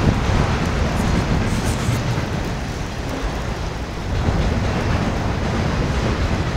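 Norfolk Southern autorack freight cars rolling past on the rails: a steady, loud rumble of steel wheels on track.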